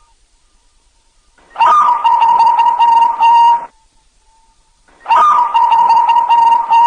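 Zebra dove (perkutut) cooing: two phrases of about two seconds each, each a quick run of coos held near one pitch, with a pause of about a second and a half between them.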